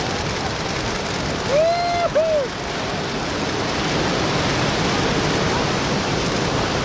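Steady rush of big ocean surf and wind. About two seconds in, a short two-note whoop cuts through, rising and falling in pitch.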